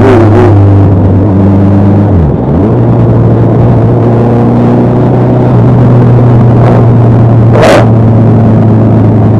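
Superbike engine running steadily at riding speed under heavy rumble. Its note briefly drops and comes back about two seconds in. A short hissing burst comes near the end.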